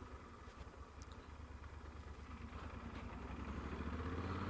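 Yamaha Super Tenere's parallel-twin engine running under way, a low, muffled hum that grows steadily louder toward the end.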